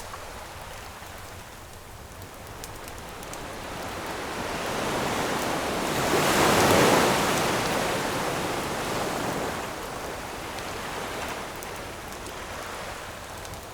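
An ocean wave builds, breaks on the shore at its loudest about halfway through, and washes back out. Faint crackles of a wood campfire come through near the start and near the end.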